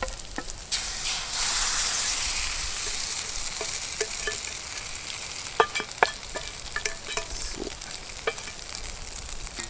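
Egg-soaked bread (Arme Ritter) frying in a pan over a campfire: the sizzle surges suddenly about a second in, then slowly eases to a steady sizzle, with scattered sharp clicks.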